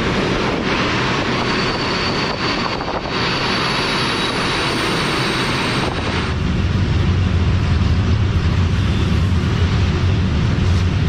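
Moving freight train heard from on board an open wagon: steady rumble of wheels on rails mixed with wind on the microphone. About six seconds in, the low rumble grows louder and deeper.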